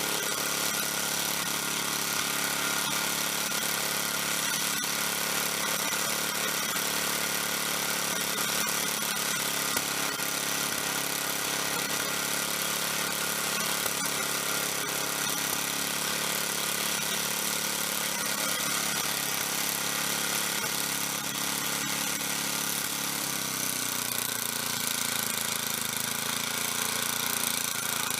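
Small snowblower engine with a bad muffler running steadily. Its speed drops slightly about three-quarters of the way through.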